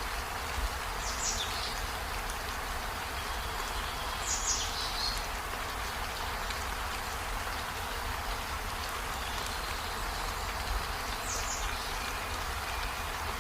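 Steady rain falling on trees and a window, an even hiss over a low rumble. A few short, high chirps that drop in pitch come about a second in, at about four seconds and near the end.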